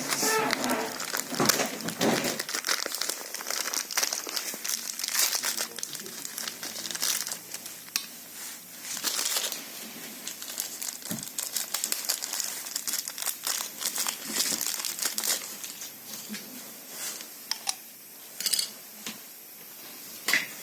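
Irregular crinkling and rustling, broken by scattered small clicks and knocks.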